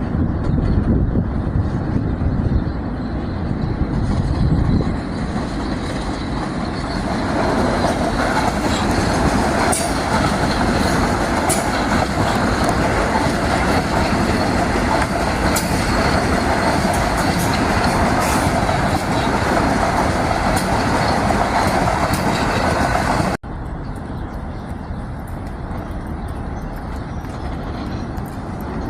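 Metro-North commuter train running along the track, a steady rumble of wheels on rail that grows fuller about seven seconds in. It breaks off abruptly about 23 seconds in to quieter, continuing train noise.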